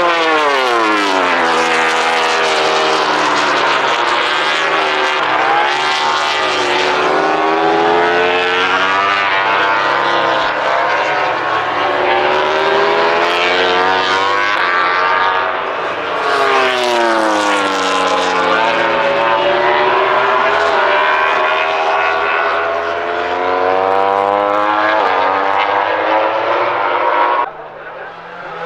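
MotoGP racing motorcycles at high revs, several passing in succession, their engine pitch sweeping steeply down as each goes by or brakes and climbing again as they accelerate. The sound drops sharply just before the end.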